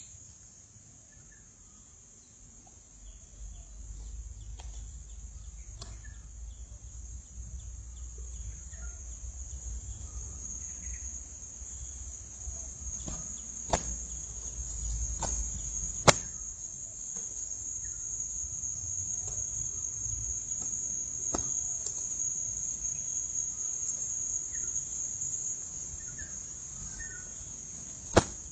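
Steady high-pitched insect chirring, with a low rumble through the middle and a few sharp clicks or knocks, the loudest about halfway through.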